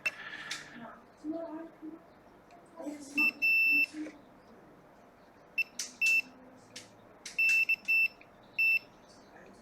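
Digital multimeter's continuity beeper giving about ten short, high beeps in irregular groups as the probe touches pin after pin of a chip. Each beep marks a near-zero resistance to ground, the sign of a shorted chipset.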